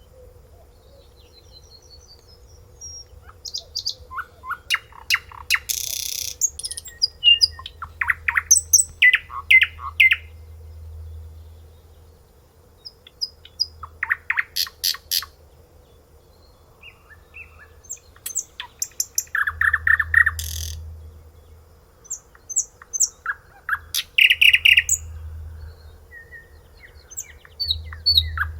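A songbird singing in short, varied phrases of rapid repeated notes and trills, separated by pauses of a few seconds.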